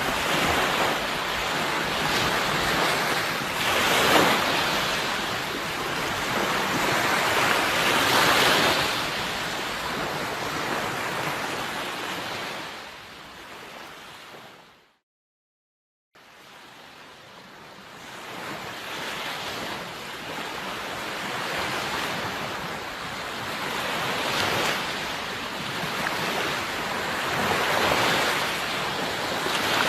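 Sea waves washing in, with surges about 4 and 8 seconds in. About halfway the surf fades out to a second of complete silence, then fades back up and keeps breaking.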